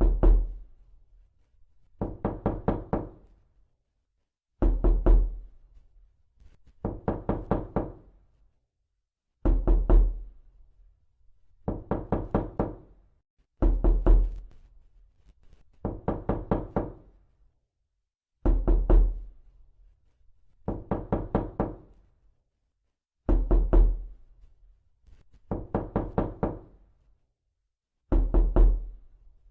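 Repeated knocking, in quick sets of four or five knocks about every two seconds. Sets with a heavier, deeper thud alternate with lighter ones.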